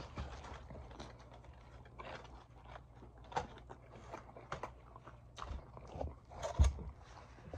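Close-miked chewing of a chicken gyro: soft, irregular wet mouth clicks and smacks, with a few louder smacks, the loudest about six and a half seconds in.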